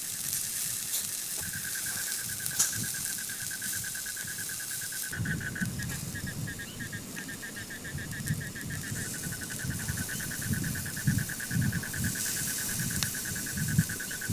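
Chicken sizzling and hissing over campfire embers, with a few sharp crackles. An insect trills steadily in fast pulses at a high pitch from about a second and a half in, and from about five seconds in a gusty low rumble joins it.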